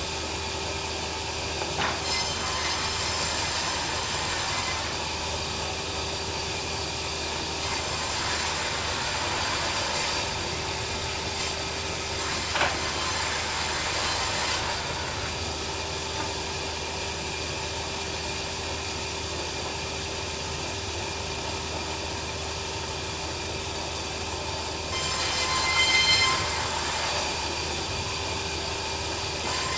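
Band sawmill running with a steady hum, turning harsher four times for two to three seconds each as the blade cuts through a log, loudest near the end.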